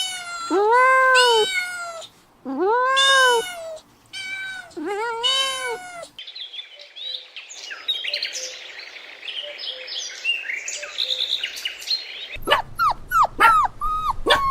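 A cat meowing three times, each meow long and drawn out, rising then falling in pitch. Then several seconds of high, busy bird chirping. Near the end come quick, high puppy-like yelps and whimpers.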